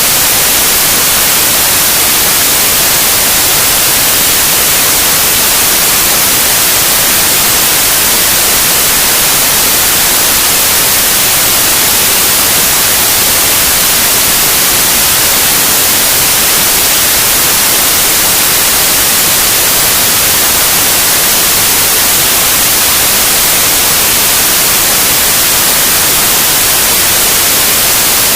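Loud, steady white noise, an even hiss across all pitches with no change.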